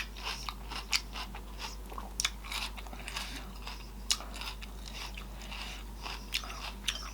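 Close-miked chewing with crisp crunches and wet mouth sounds: a person biting into and chewing raw bell pepper. The crunches come thick in the first few seconds, then more sparsely.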